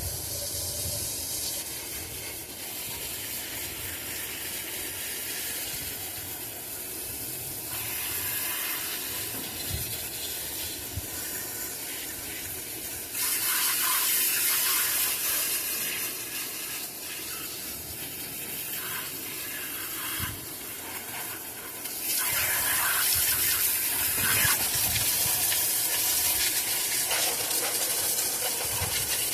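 Liquid spray hissing onto an engine, with louder stretches of several seconds about midway and again near the end, as the engine is sprayed down to cut oil residue.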